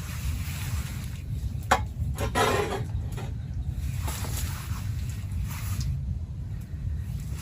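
Steady low rumble of wind and heavy rain, with a sharp click a little under two seconds in and a short rubbing sound just after it.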